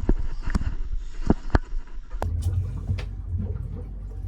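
Sounds aboard a small fishing boat: a few sharp knocks, then from about two seconds in a steady low hum of the boat's motor.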